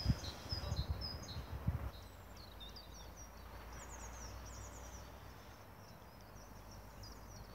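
Small songbirds singing faintly: many short high chirps and trills repeating, over low outdoor background noise, with a few low thumps in the first two seconds.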